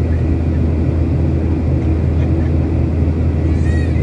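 Boeing 737-800 cabin noise from a seat by the wing: its CFM56-7B engines and airflow making a loud, steady low rumble. A faint wavering pitched sound comes in near the end.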